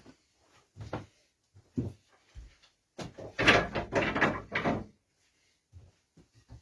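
Handling noise from wooden workpieces: a few separate knocks, then about two seconds of loud rattling and scraping as the pieces are shuffled, followed by a few light clicks.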